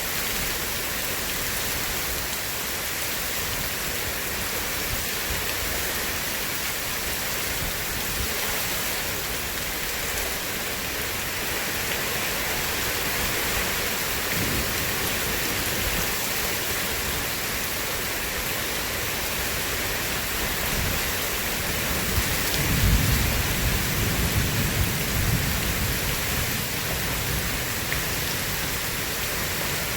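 Steady heavy rain falling. A low roll of thunder swells about two-thirds of the way through and fades out over a few seconds.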